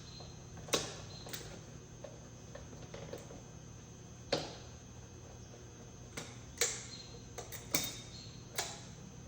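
Light clicks and knocks of parts and tools being handled, about eight spread irregularly over the stretch, over a low steady background hum.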